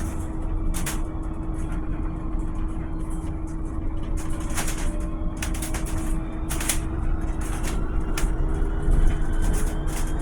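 Volvo BZL two-motor electric bus running: a low rumble with a steady hum and scattered rattling clicks, and a rising electric-motor whine from about three quarters of the way in as it picks up speed.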